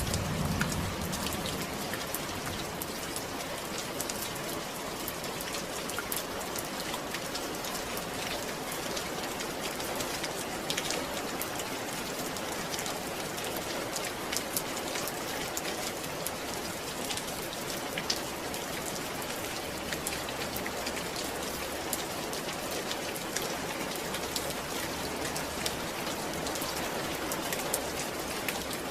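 Steady rain falling, with many separate drops tapping sharply on a surface. A low rumble dies away in the first second.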